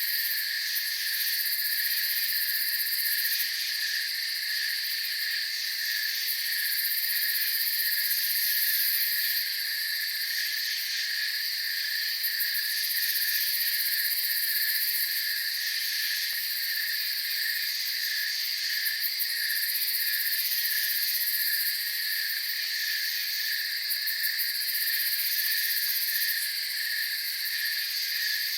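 Night insect chorus of crickets trilling in several steady layers, one a regularly pulsing chirp, with a very high buzzing that swells in and out every few seconds.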